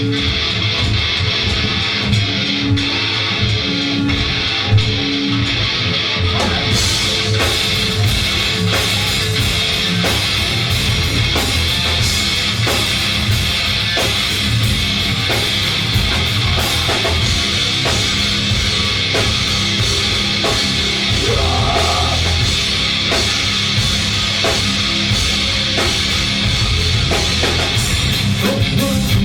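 Rock band playing live, electric guitar leading, with the drum kit and cymbals coming in about six seconds in and the full band driving on.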